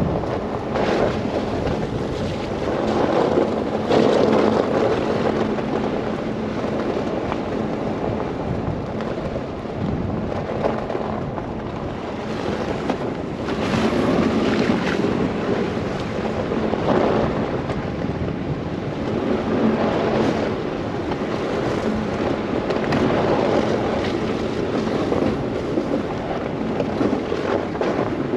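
Blizzard wind rushing in gusts that swell and fade every few seconds, over the steady hum of a car driving through snow.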